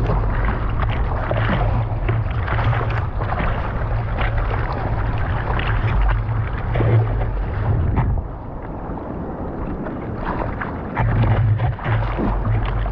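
Wind buffeting the microphone over the rushing wash of ocean surf, steady and loud, easing off about eight seconds in.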